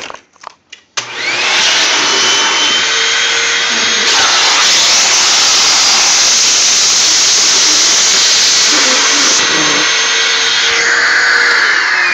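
Hoover WindTunnel bagged upright vacuum switched on after a few clicks about a second in: the motor whines up to speed and then runs loud and steady, drawing air through the crevice tool on its hose.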